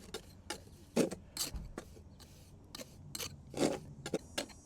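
A steel mortar tool scraping and tapping in short, irregular strokes against stone as wet mortar is worked and packed into the joints between flagstones.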